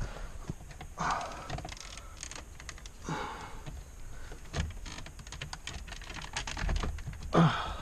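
Irregular plastic clicks, taps and knocks of a car's dashboard trim panel being pried and tugged by hand, with a few brief scuffs; the panel will not come free because a connector behind it holds it. A sharper knock comes near the end.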